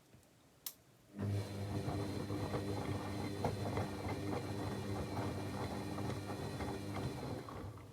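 Techwood WB 91042I washing machine's drum motor turning the drum for about six seconds in a wash tumble: a steady motor hum with a crackling patter from the load in the drum. It starts a second in, just after a single click, and stops near the end.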